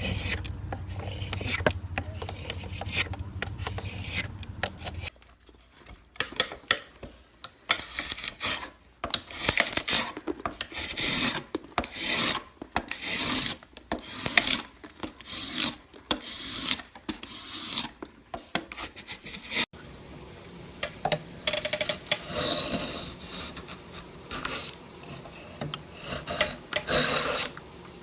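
Carving tool scraping and cutting into wood in repeated strokes, about one a second. A low steady hum runs under the first five seconds, and after an abrupt change near twenty seconds the strokes carry a faint squeaky ring.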